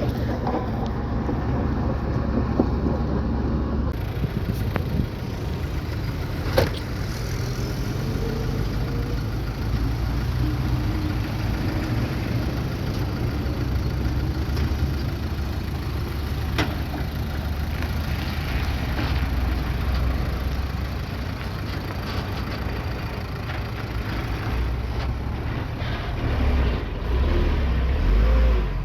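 Bulldozer's diesel engine running steadily, with a couple of sharp knocks, and growing louder near the end.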